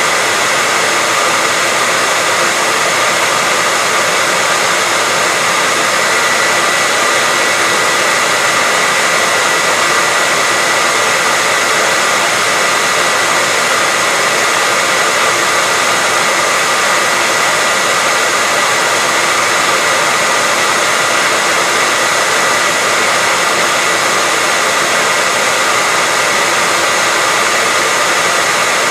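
Hair dryer running steadily: an even rush of blown air with a faint, steady high whine.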